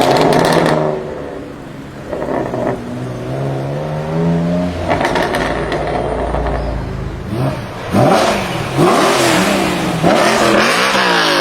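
BMW performance car engine being revved: a slower climb in pitch early on, then several quick throttle blips that rise and fall sharply in the second half.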